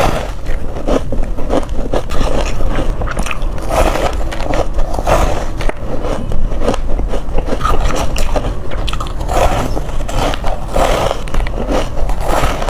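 A person biting into hard crushed ice, one crunch after another in quick, irregular succession.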